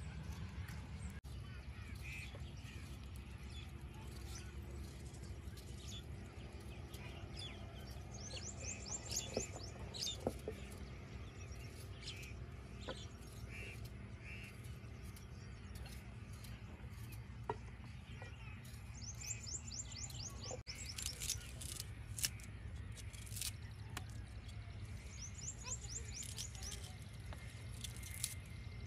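Birds calling, with a quick high trill of repeated notes heard three times, over a steady low rumble and scattered faint clicks.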